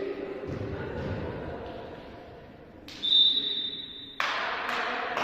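Referee's whistle blowing one steady high blast of a little over a second, about three seconds in, over a low murmur of voices in a sports hall; the hall noise rises sharply as the whistle stops.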